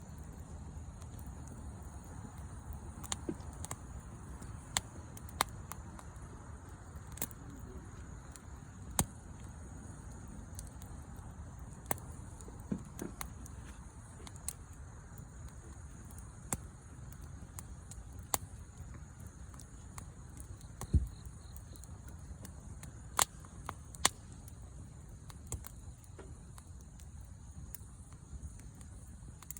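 Wood fire burning and crackling, with sharp pops at irregular intervals about a second or two apart over a low, steady sound of the flames.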